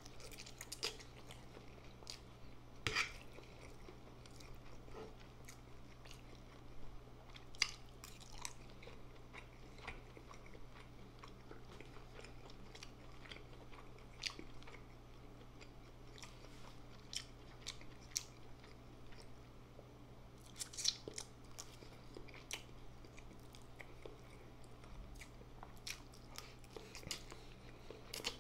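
Close-miked chewing of instant noodles and boiled egg, with wet mouth clicks and smacks scattered irregularly throughout.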